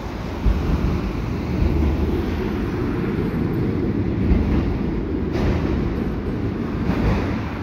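Freight train of autorack cars rolling across a steel girder railway bridge: a steady low rumble of wheels on rail, with a couple of brief low thumps.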